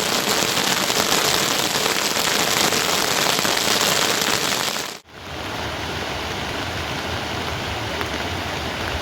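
Steady heavy rain, a dense hiss. About five seconds in it cuts off abruptly and a duller, lower steady rush of rain takes over.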